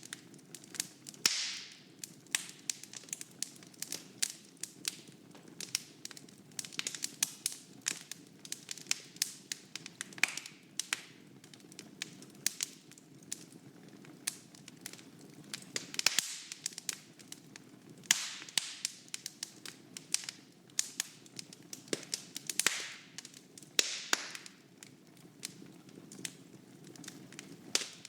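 Wood fire in a fireplace crackling, with frequent sharp pops and snaps at irregular intervals over a low steady rushing of the flames.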